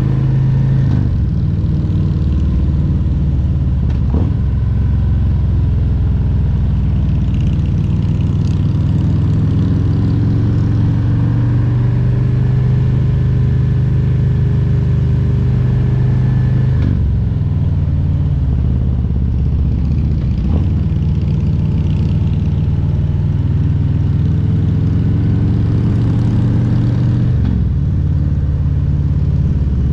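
Harley-Davidson Milwaukee-Eight 114 V-twin engine running steadily while the motorcycle is ridden, its note stepping to a new pitch a few times as the rider changes gear or throttle.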